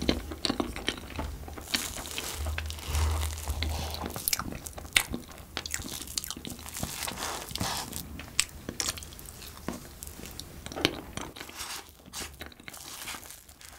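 Close-miked chewing of a soft cream-topped cupcake: many short wet clicks and smacks from the mouth. A low steady hum lies underneath and stops near the end.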